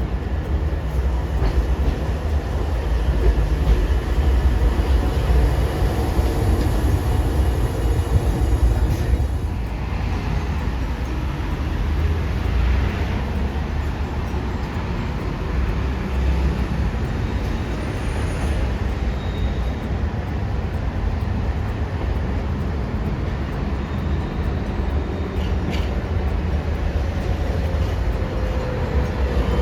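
Hiroshima Electric Railway streetcar running on street track, a steady low rumble, with a falling whine near the end.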